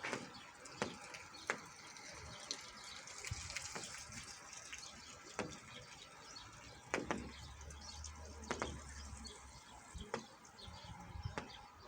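Rain falling: a steady hiss of rainfall with single large drops striking close by at irregular intervals.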